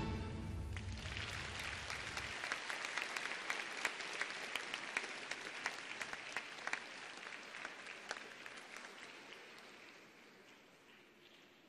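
Arena audience applauding and clapping as the music ends, the applause gradually dying away to near quiet.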